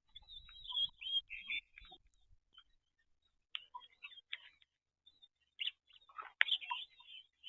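Birds chirping in short, scattered bursts, in clusters with gaps between them.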